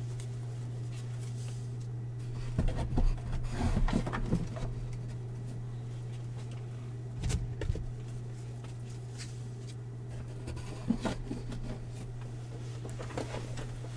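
Paper and card packaging being moved and handled in a few short rustling bursts, over a steady low hum.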